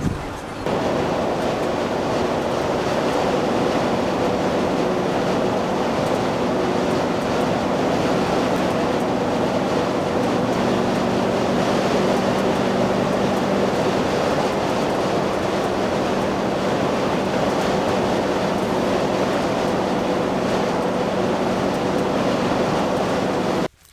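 Steady road and engine noise inside a van cruising along a highway, an even rumble with a faint steady hum. It cuts off abruptly near the end.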